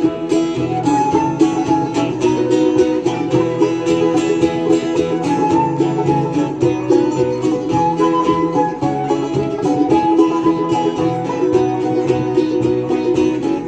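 Folk band playing an instrumental passage with no singing: quick plucked-string melody over a steady bass line.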